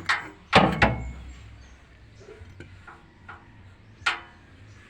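A few sharp knocks or clanks of hard objects: two loud ones close together about half a second in, fainter taps in the middle, and another loud one near the end.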